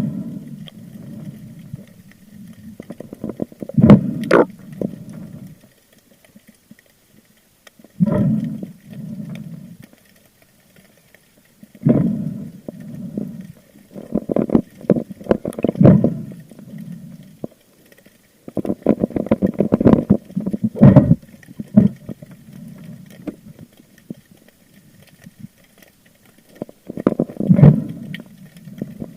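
Muffled water sloshing and gurgling around a spearfisher's camera, in irregular bursts a few seconds long with crackling in them and short quiet gaps between.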